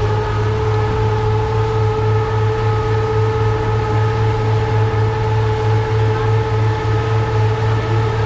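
A boat's engine running steadily: a low, slightly pulsing hum with a steady higher whine above it.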